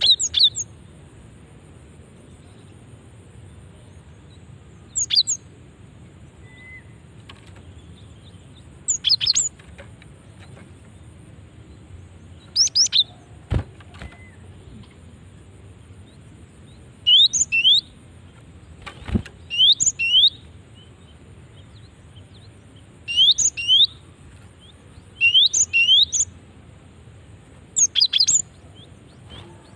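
Female gelatik batu (cinereous tit) calling: short bursts of quick, high, falling notes, often in twos or threes, repeated every few seconds and more closely toward the end. It is a female's call to draw in males. Two sharp clicks sound in the middle.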